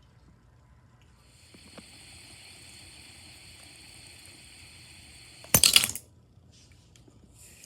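A small spinning toy whirring steadily and high. A short, loud clatter of hard plastic comes about five and a half seconds in, and the whirr starts up again near the end.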